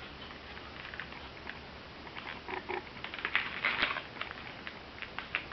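Faint handling noise: scattered small clicks and rubbing as a tiny latex balloon dog and a coin are handled, picking up about two seconds in.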